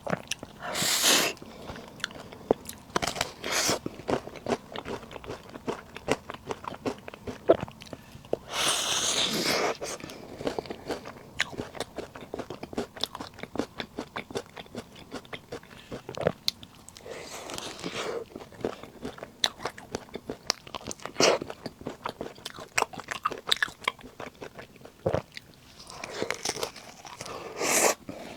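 Close-miked biting and chewing of puff snacks: a dense run of small wet clicks and crackles, with a louder noisy swell a few times.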